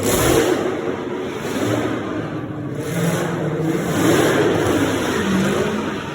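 Car engine revving hard, its pitch rising and falling over and over, over a loud rushing noise.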